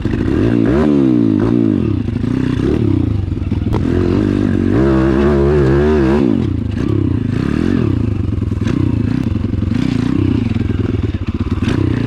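Pit bike engine revving up and down repeatedly as the throttle opens and closes on a dirt trail, over a steadier low engine hum.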